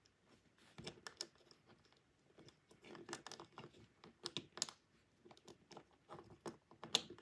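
Faint, irregular clicks and taps of small plastic toy-train parts being handled and fitted together, with a few sharper clicks about a second in and around four to five seconds in.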